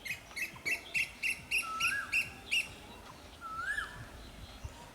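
Birds calling: a quick run of about nine chirps, roughly three to four a second, that stops about two and a half seconds in, and a short whistled note that rises and falls, repeated about every two seconds.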